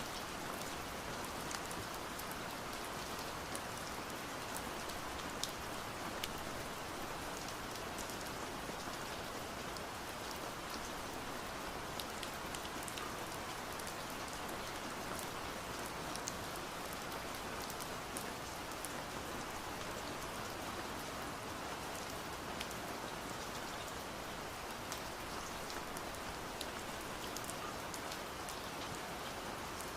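Steady rain with scattered sharp drop taps, the drops striking window glass.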